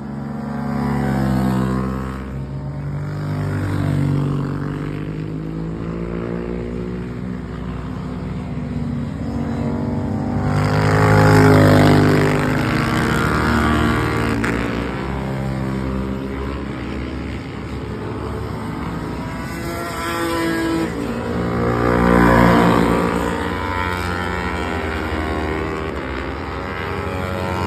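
Racing motorcycle engines running hard, their pitch rising and falling as they pass, with the loudest passes about a second in, around halfway through and about two-thirds of the way through.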